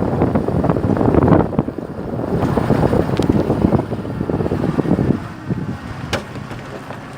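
Wind gusting against the microphone, a loud, uneven low buffeting that eases off about five seconds in.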